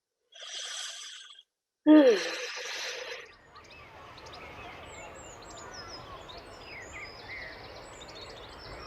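A long breathy exhale, then a voiced sigh that falls in pitch, as of someone stretching. From about three seconds in there is a steady outdoor background with small birds chirping.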